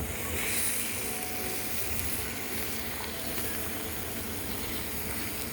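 Fire on a small burning car, fed by fire fluid and fireworks, hissing and sizzling steadily with a few faint crackles.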